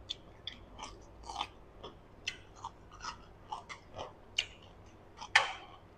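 Close-miked chewing of crisp food with the mouth closed: a run of short crunches, about two a second, with a louder one near the end.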